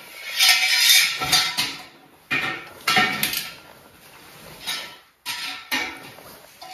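Guardrail parts clinking and clattering as they are handled and fitted together, in several irregular bursts of knocking with a short ring.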